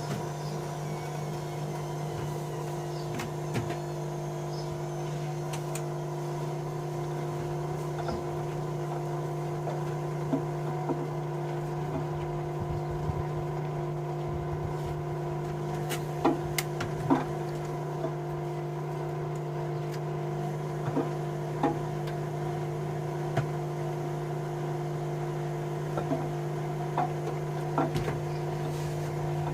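Bauknecht Dynamic WA 1460 Sports washing machine running with a steady motor hum that holds one pitch throughout, and scattered light clicks and taps from inside the machine.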